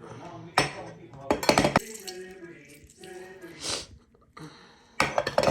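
A spoon clinking and scraping against a bowl as chatpate ingredients are added and mixed. It comes in short clattering bursts: one about half a second in, a cluster around one and a half seconds, one near four seconds and one at the end.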